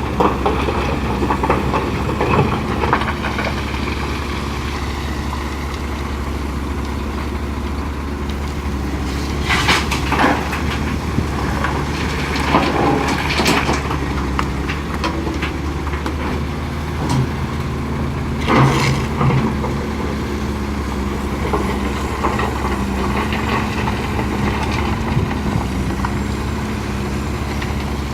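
Heavy diesel earthmoving engine running steadily as an excavator loads rock into a dump truck. Loud crashes of rock come several times: about ten seconds in, again a few seconds later, and once more past the middle.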